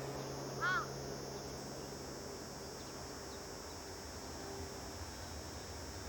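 A crow caws once, short and harsh, about a second in, over a steady faint background. A low rumble slowly builds toward the end.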